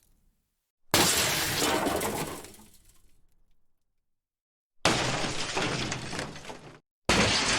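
Three separate breaking crashes, each a sudden hit followed by about two seconds of clattering debris that fades out.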